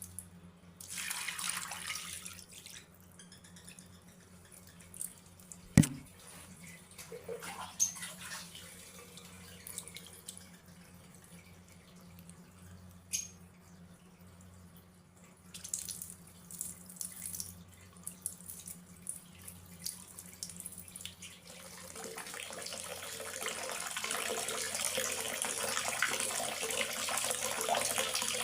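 Scattered water drips and small knocks over a faint low hum, with one sharp knock about six seconds in. Near the end a steady rush of running water builds up.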